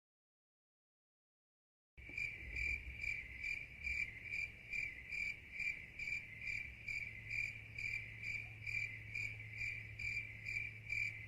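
Stock sound effect of a cricket chirping in an even rhythm, about two to three chirps a second, starting after about two seconds of dead silence, with a faint low hum beneath.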